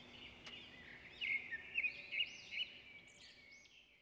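Birds chirping, with many quick arching notes, fading out near the end.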